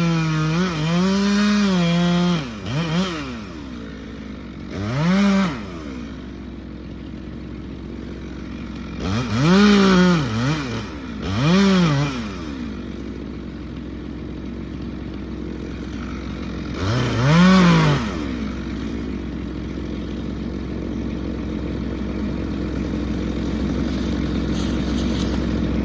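Two-stroke chainsaw running at high speed, then dropping to idle about two seconds in. It idles with several quick revs that climb and fall back, most of them between about five and eighteen seconds.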